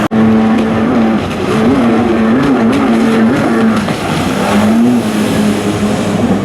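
Jet ski engine running at high revs, its pitch rising and falling over and over through the middle as the throttle is worked.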